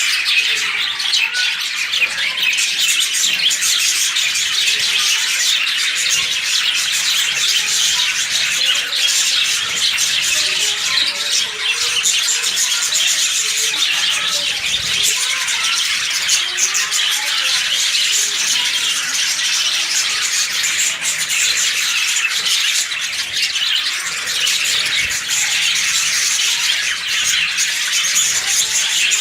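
A colony of lovebirds chattering and squawking, many high-pitched calls overlapping without a break.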